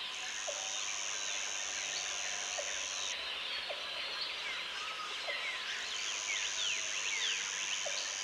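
Tropical forest ambience: many birds calling with short chirps and whistles, over a constant hiss of insects. A high insect buzz holds steady for about three seconds, stops, and starts again about six seconds in.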